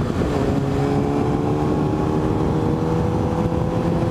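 Motorcycle engine running under way on the road; its note dips briefly just after the start, then rises slowly and evenly.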